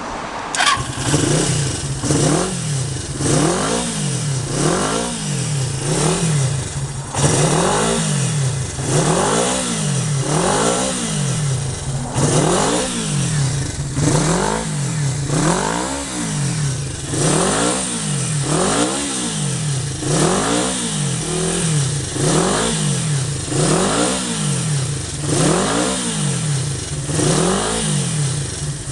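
Kawasaki Z250FT motorcycle engine with a new collector exhaust being revved over and over, the engine note rising and falling about once a second.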